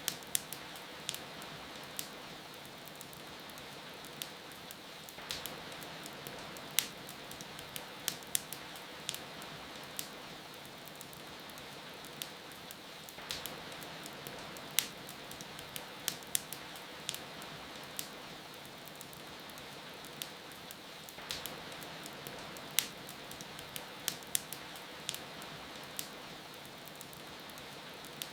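Steady hiss of rain with a wood fire crackling over it: irregular sharp pops and snaps, several every few seconds.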